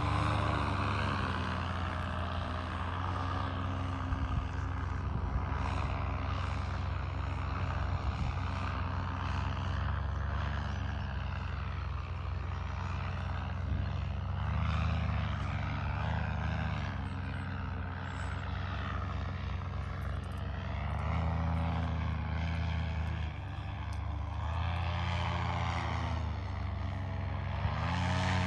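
Propeller aircraft engine running steadily, its pitch drifting up and down a little.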